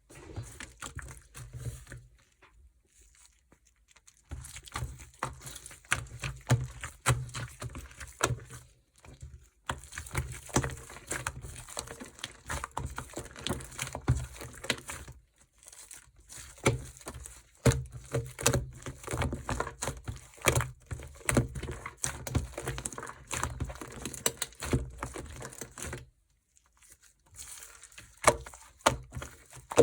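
Slime being squished and pressed by hand, giving dense crackling and popping clicks in several stretches with short pauses between them.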